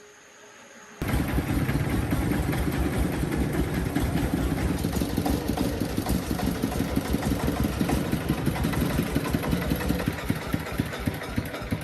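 Tractor engine running with a rapid, even pulsing, cutting in suddenly about a second in after a faint hum.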